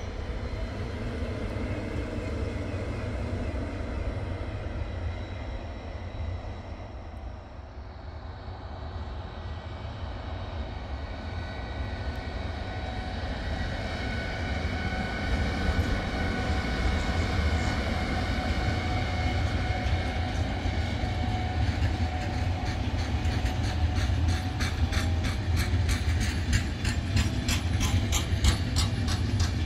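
A freight train hauled by a Siemens Vectron electric locomotive runs past with empty flat wagons, its rumble growing louder. In the second half the wagon wheels beat out an even clickety-clack over the rail joints. Before that, about eight seconds in, the running noise dips at a change from another passing train.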